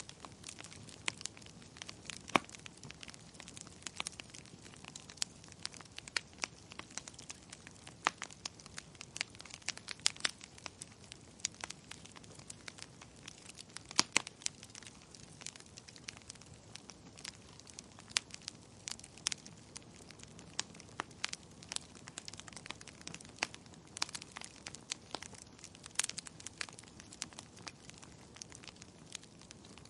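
Fire crackling in a fireplace: irregular sharp pops and snaps, a few louder than the rest, over a faint steady hiss.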